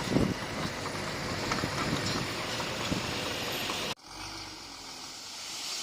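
A bulldozer's engine running under work, with scattered clanks and knocks. About four seconds in the sound cuts off abruptly to a quieter, steady hiss.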